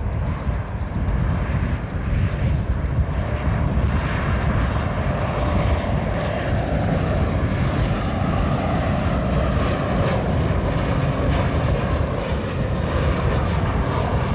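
Jet airliner engines, a steady loud rumble with a hiss above it, as a plane passes.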